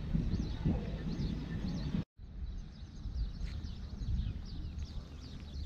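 Small birds chirping again and again over a steady low outdoor rumble, with a brief dropout in the sound about two seconds in.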